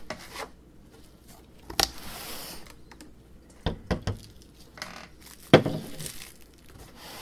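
3D printer kit parts being unpacked from their box: plastic packaging crinkling and tearing, with several sharp knocks as parts are handled and set down, the loudest about five and a half seconds in.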